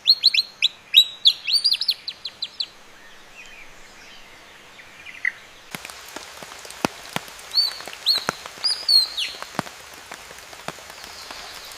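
AI-generated birdsong: a songbird sings a rapid string of high, downward-slurred whistled notes, pauses, and gives a second shorter phrase about two-thirds of the way through. From about halfway in, a steady hiss with scattered sharp clicks runs underneath.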